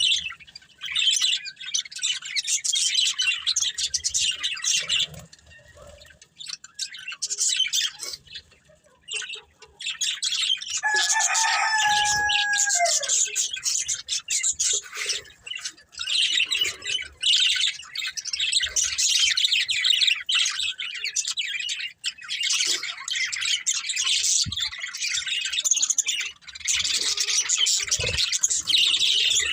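Budgerigars chattering and chirping in quick, dense runs, with a few short lulls. About eleven seconds in there is one longer, lower, clearer call that falls away at the end.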